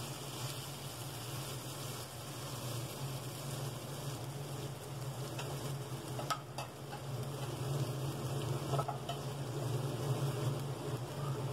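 Chilli-and-turmeric-coated potato cubes sizzling in hot oil in a pan, over a steady low hum. A couple of light sharp clicks come about six seconds in.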